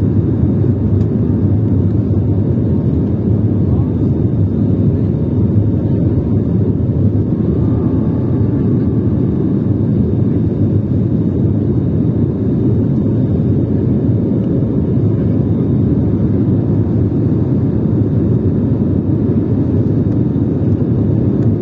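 Airplane engines running with a loud, steady low rumble that does not change, with faint steady whine tones above it.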